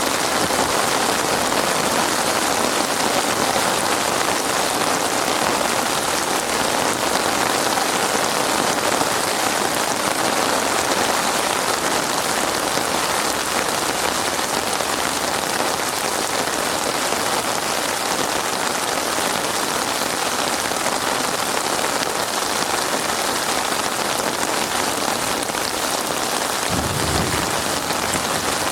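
Heavy rain falling steadily in a dense, even hiss, with a brief low rumble near the end.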